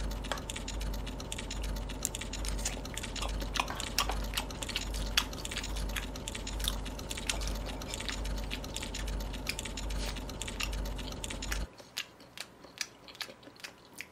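Close-miked chewing of raw beef sashimi: a run of small clicking mouth sounds, over a low hum that cuts off about twelve seconds in.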